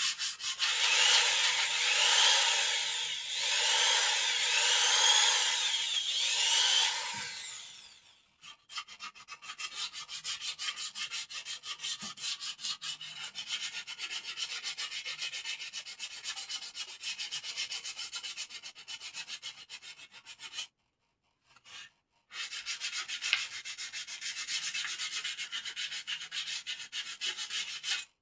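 Sandpaper rubbing on the wood of a bird cage, smoothing it. It starts with loud long back-and-forth strokes that rise and fall in pitch, then turns quieter with rapid short strokes, with a brief pause about three quarters of the way in.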